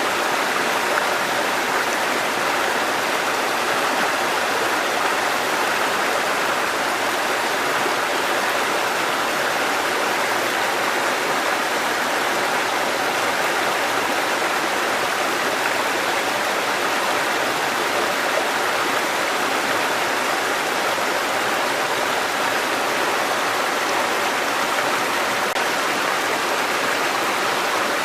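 Mountain stream water cascading over rocks in a steady, unbroken rush.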